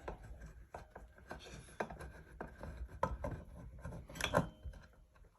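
Ceiling fan mounting screws being worked loose and handled: irregular small clicks, scrapes and rubbing of metal parts, with a sharper knock a little past four seconds in.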